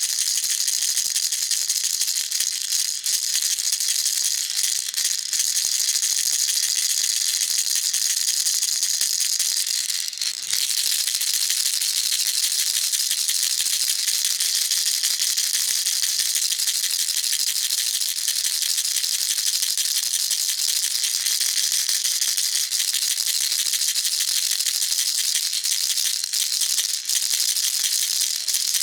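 Baby rattle shaken continuously, its beads making a dense, steady, high-pitched rattle, with a brief break about ten seconds in.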